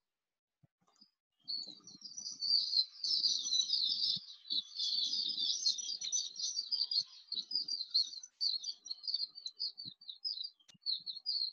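Birds chirping: a dense run of rapid, high chirps that starts about a second and a half in and carries on without a break.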